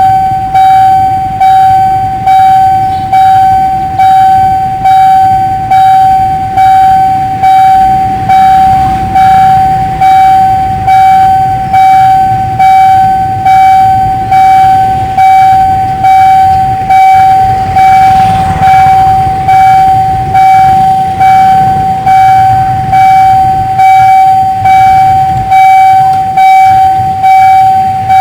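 Railway level crossing warning bell ringing with a steady pulsing ding, about once a second, while the barrier is down for an approaching train. A low rumble runs underneath.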